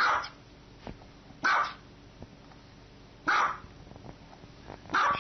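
A small white dog barking four times, each bark short, about a second and a half to two seconds apart.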